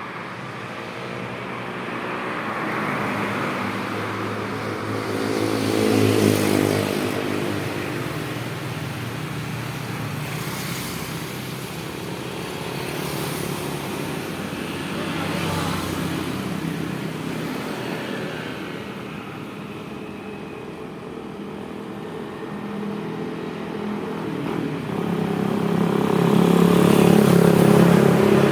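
Street traffic of motorcycles and other motor vehicles passing by, engines swelling and fading, loudest about six seconds in and again near the end.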